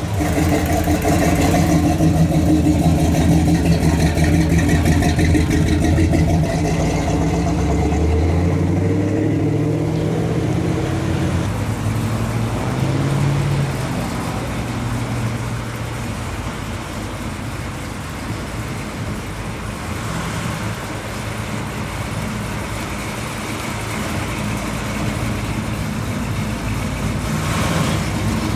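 The engine of a 1949–50 Ford shoebox running steadily at low revs, then rising in pitch about eight seconds in as the car pulls away. After that come quieter street traffic and another classic car's engine, the 1955 Chevrolet, growing louder as it passes near the end.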